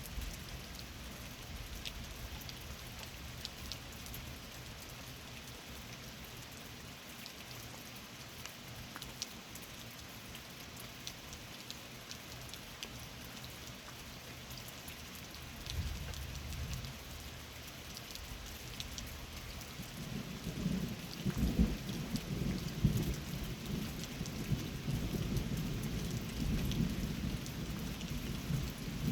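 Steady rain with scattered drips, then a low rumble of thunder about 16 seconds in and a longer rolling peal of thunder from about 20 seconds to the end, the loudest part.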